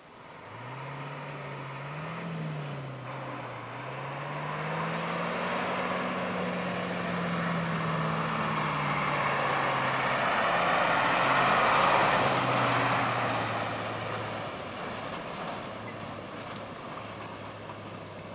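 Ural 4320 army truck's diesel engine pulling under load, its pitch rising and falling with the throttle. It grows louder to a peak about two-thirds of the way through, then fades as the truck moves off.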